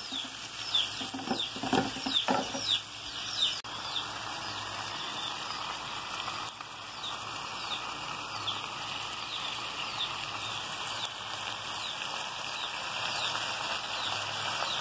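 Longaniza with tomato, onion and chile frying in a pan: a steady sizzling hiss, with a knife scraping through it in the first few seconds. Short high chirps repeat about twice a second over the sizzle.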